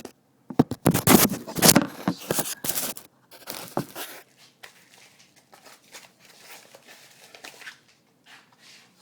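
Crinkling and rustling handling noise, loudest and densest in the first three seconds or so, then thinning into fainter scattered clicks and rustles.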